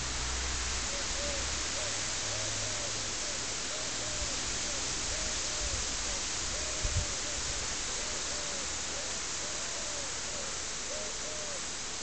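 A bird calling a long series of short, low hooting notes over a steady hiss, with two quick low thumps about seven seconds in.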